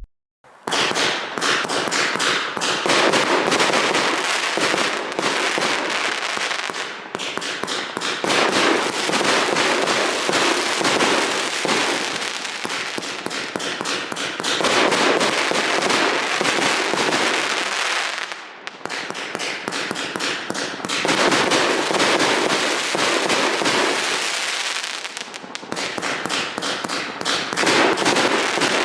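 An 80-shot 1.3G display cake firing in a rapid, continuous barrage of shots and bursts, starting about half a second in and going on throughout, with three short lulls along the way.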